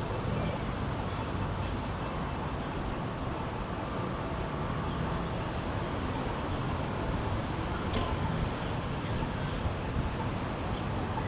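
City street ambience: steady road traffic noise, with two short clicks about eight and nine seconds in.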